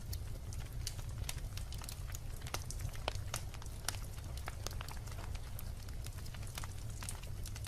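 Wood logs burning in a fireplace, crackling with many irregular sharp pops over a steady low rumble.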